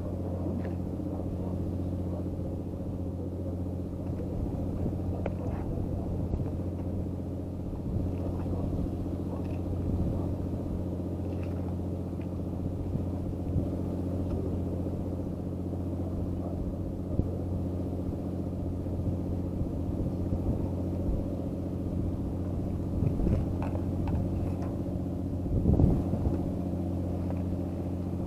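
An engine idling steadily with an even low hum, unchanged throughout, with a few faint knocks near the end.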